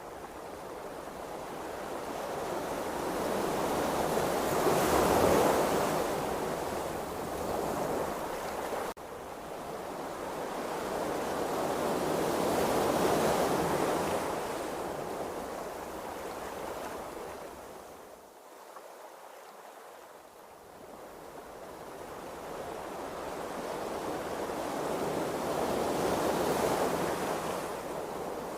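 Open-sea waves washing, the rush of water swelling and fading in three long surges.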